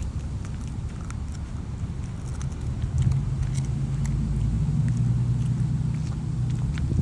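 A dog chewing chicken jerky: scattered small crunching clicks over a low steady rumble, which grows louder about three seconds in.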